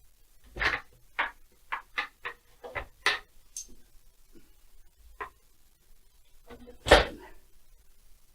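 Sharp clicks and knocks of hand tools and chainsaw parts being handled: a quick run of about eight in the first three seconds, a single one about five seconds in, and a louder knock about seven seconds in.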